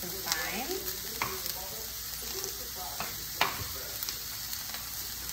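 Cauliflower rice and vegetables sizzling steadily in a frying pan, with a few sharp knocks, the loudest about three and a half seconds in.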